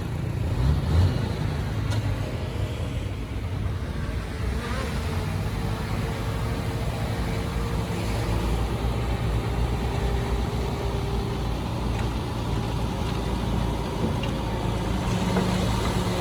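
Heavy diesel earthmoving machinery engine running steadily under work.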